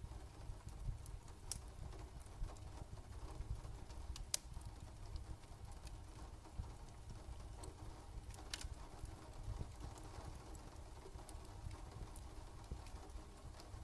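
Crackling fire: scattered sharp pops and clicks over a faint, steady low rumble.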